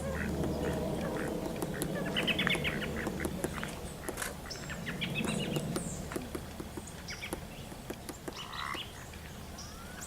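A group of ducks quacking and calling, a dense run of short calls that is loudest in the first few seconds and then thins out, with small birds chirping high above them.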